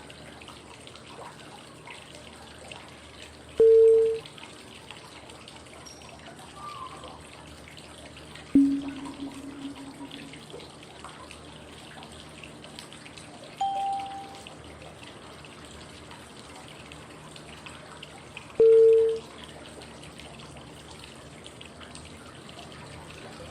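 Steady flowing-water white noise with a short electronic cue tone every five seconds, stepping down through three pitches (high, middle, low) to pace the inhale, hold and exhale of 5-5-5 breathing. The middle tone is the loudest and the low tone is held longest, about a second and a half.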